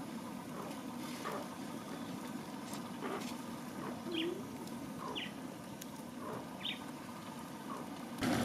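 Birds chirping, short high calls repeated every second or so, some falling in pitch, over a steady low outdoor background.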